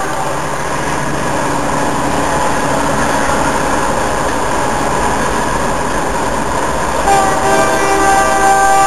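Freight train of autorack cars rolling past, a steady rumble of steel wheels on rail. About seven seconds in, a train horn chord sounds and holds to the end.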